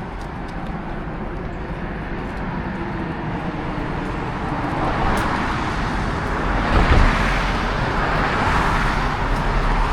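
Motor vehicle road noise, a steady rumble and tyre hiss that swells to its loudest about seven seconds in.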